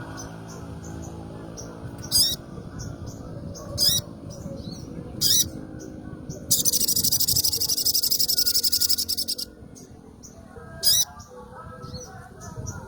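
A songbird singing in short, very high, sharp chirps every second or two. About halfway through it breaks into a fast, buzzing trill lasting about three seconds. A low background murmur runs underneath.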